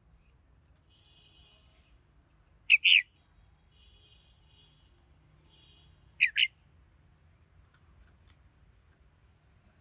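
Red-whiskered bulbul calling: two loud, short two-note calls about three and a half seconds apart, with fainter twittering before and between them.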